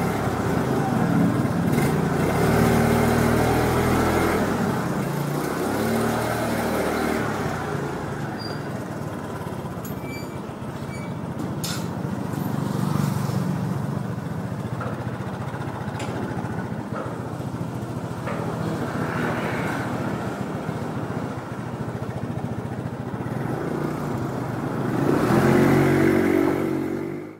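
City street traffic dominated by motorbike engines over steady road noise. Engine pitch rises and falls about two to seven seconds in and again near the end, where it is loudest.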